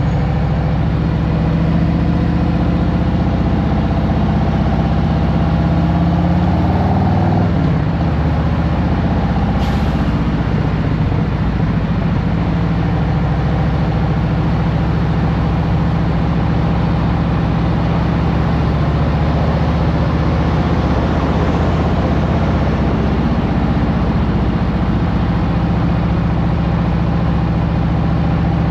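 2023 Harley-Davidson Road Glide Special's Milwaukee-Eight 114 V-twin running steadily. Its note rises a little and then drops about seven seconds in. A brief sharp sound comes about ten seconds in.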